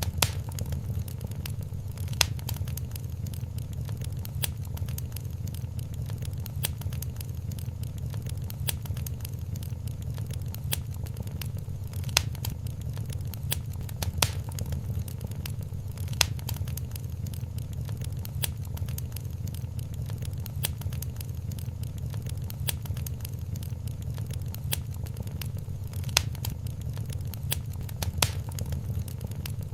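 Wood fire crackling in a fireplace: a steady stream of small snaps with a sharper pop every few seconds, over a low steady rumble of the flames.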